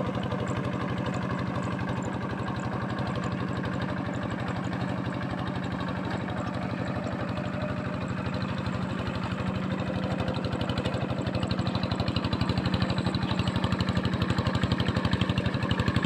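Diesel tractor engine running steadily, growing louder in the last few seconds.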